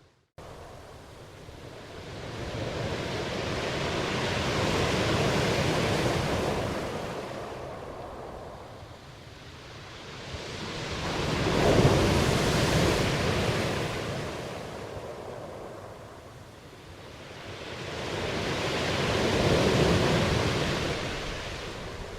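Ocean waves breaking and washing in, three swells that rise and fade about every seven seconds. A split-second dropout to silence comes right at the start.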